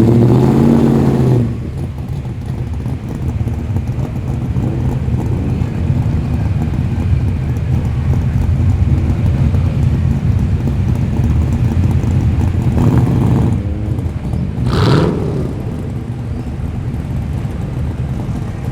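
Muscle car engines rumbling as the cars roll slowly past at low speed, a deep, steady rumble. The engine note rises and falls in the first second or so, and there is a short rev blip about fifteen seconds in.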